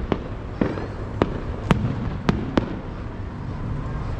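Aerial fireworks bursting: about six sharp bangs in the first three seconds, over a steady low rumble.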